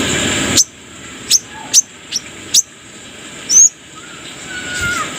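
Brown-throated sunbird (kolibri kelapa) calling: a run of sharp, high, downward-slurred chirps, about six of them, the loudest a twisting note about three and a half seconds in. A loud hiss cuts off about half a second in.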